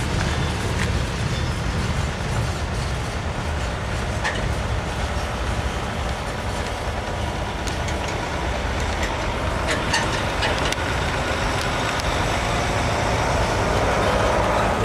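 Norfolk Southern freight train of empty bottle cars rolling along the track: a steady low rumble of wheels on rail, with a few sharp clicks and clanks from the cars.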